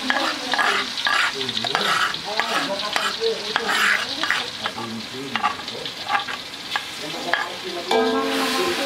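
Ground chili and spice paste sizzling in hot oil in a wok, with a metal spatula scraping repeatedly against a stone mortar as the paste is scraped out into the pan.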